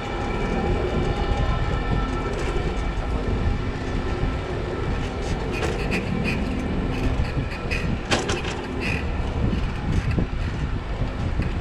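Electric tram running close by: a steady whine of several even tones over a constant low rumble, with a few short sharp clicks and rings in the second half.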